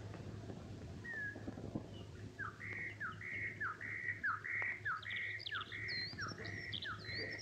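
A songbird repeating a short phrase about twice a second, from about two seconds in: a quick downward note, then a held higher note. Higher chirps join in over the second half, above a low steady hum.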